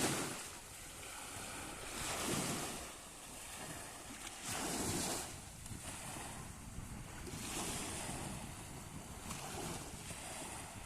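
Sea waves washing onto the shore, a hissing surge about every two to three seconds, with wind rumbling on the microphone.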